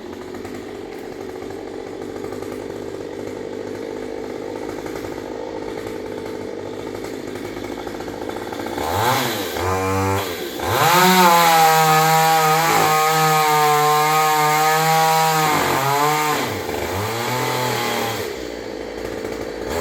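Two-stroke chainsaw idling, then revved up at about nine seconds and held at high revs for about five seconds. It then drops back and is blipped briefly a few times near the end.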